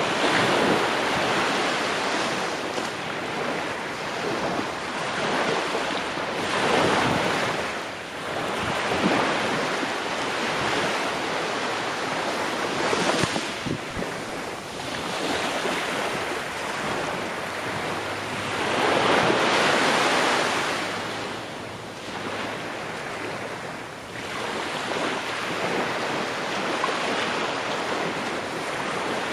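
Ocean waves breaking and washing up the shore, a steady surf rising and falling as each wave comes in every few seconds.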